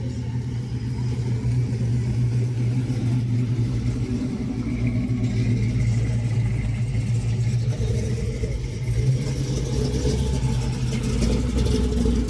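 A car engine running at low revs, a steady low exhaust rumble, getting louder over the first couple of seconds as the car draws near.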